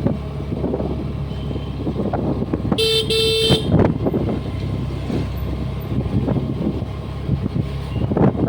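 Honda Dio 125 scooter's single-cylinder engine running steadily under way, with road and wind noise. A vehicle horn sounds once, briefly, about three seconds in.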